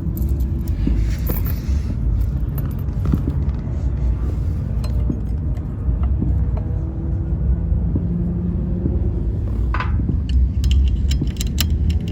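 A steady low rumble with scattered light clicks and clinks of seat-mounting hardware being handled, and one sharper knock about ten seconds in.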